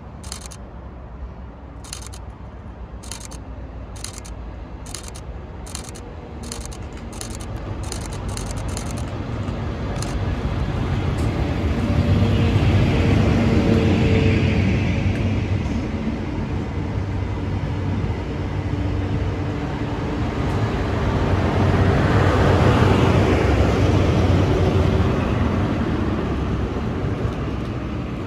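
Passenger trains passing close at speed, including a Class 43 HST with its diesel power cars: the rumble of engines and wheels on rail swells and fades once around a third of the way in, then again about three quarters in. A run of sharp ticks, coming faster and faster, sounds over the first nine seconds or so.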